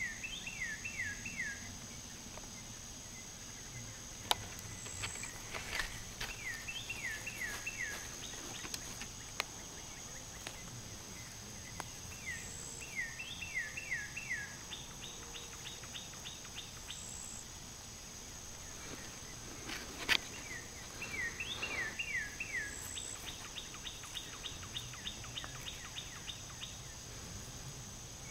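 A songbird singing repeated phrases of about five quick falling notes every few seconds, at times followed by a quicker run of short, higher notes.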